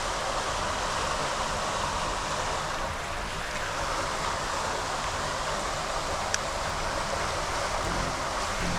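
Steady rush of floodwater pouring out of a storm drain, with one small click about six seconds in.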